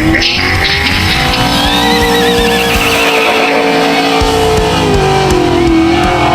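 Racing-car engine whine and tyre-squeal sound effects, with wavering high glides, over a steady low beat. This is the soundtrack of a toy slot-car racing commercial.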